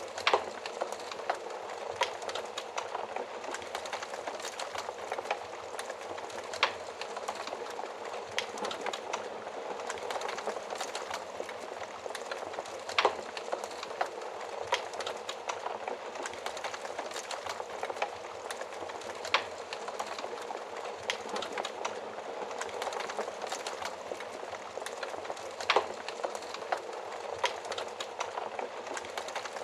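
Wood fire burning in an oven, with a steady crackle and scattered louder pops every few seconds.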